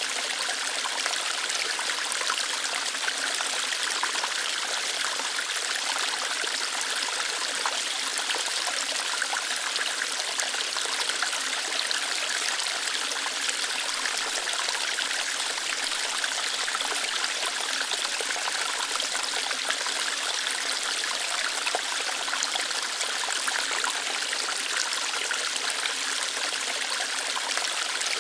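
Small waterfall flowing lightly over rocks, a steady splashing and trickling hiss.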